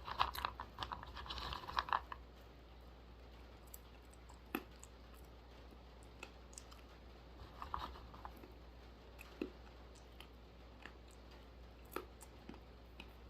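Chewing and crunching of dry roasted almonds, a dense run of crunches in the first two seconds, then scattered single crunches and clicks every few seconds.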